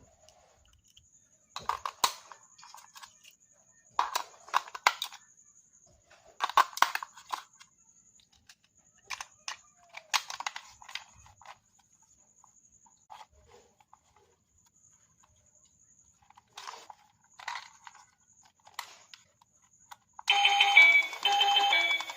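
Bursts of clicking and rattling, with a faint steady high-pitched whine underneath. Near the end a loud electronic tune starts playing.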